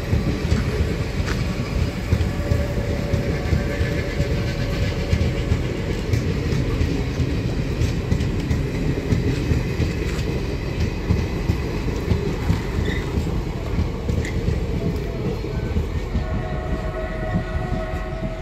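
Passenger coaches of an express train rolling past at speed, wheels rumbling and clattering over the rail joints. A held tone joins in near the end.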